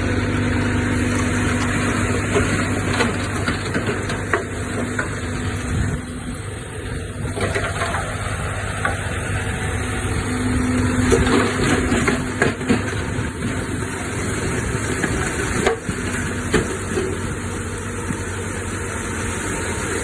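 Diesel earthmoving machinery (bulldozer and dump trucks) running steadily, its engine note swelling about halfway through, with scattered knocks and clanks.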